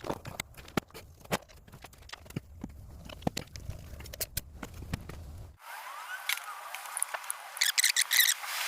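Irregular sharp clicks and knocks of hand tools against metal, with a light low rumble behind them. About five and a half seconds in, the sound changes abruptly to a thinner one, and a fast run of clicks follows near the end.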